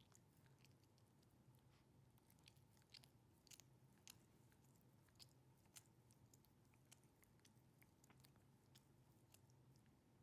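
Faint, irregular clicking and smacking of a chihuahua licking and nibbling at itself while grooming, with a few louder clicks in the middle.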